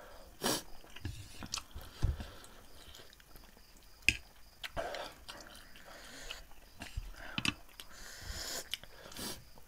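Two people chewing spicy instant noodles close to the microphone, with scattered short clicks and mouth sounds.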